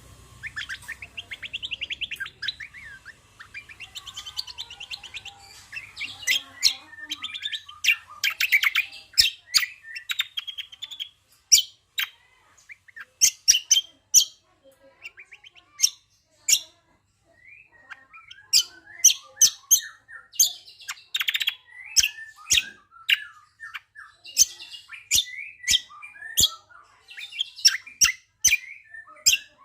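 Songbird singing: fast, dense chirping trills, then a long run of sharp clicks mixed with short chirps, broken by a couple of brief pauses.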